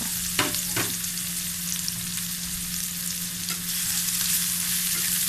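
Chopped onion and green chillies sizzling in hot oil in a karai, with two sharp spatula clicks in the first second. The sizzle grows louder about two-thirds of the way through, over a steady low hum.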